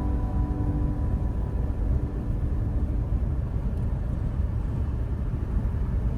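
Steady low road and tyre rumble from a Mercedes-Benz EQE 350 electric car driving along, with no engine sound. The last held notes of music fade out over the first few seconds.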